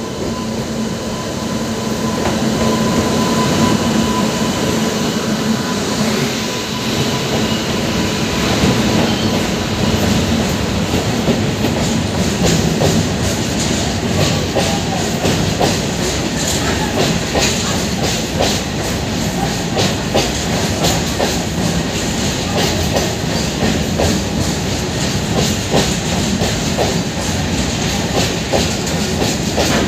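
Indian Railways electric goods train passing close by: the locomotive's steady hum for the first few seconds, then a long rake of empty flat wagons rolling past with a continuous clickety-clack of wheels over rail joints.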